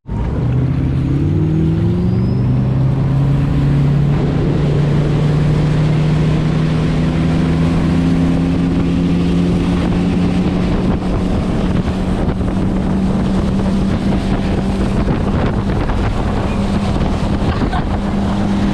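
Motorboat engine speeding up, its pitch rising over the first several seconds and then holding steady at cruising speed. Wind is rushing over the microphone.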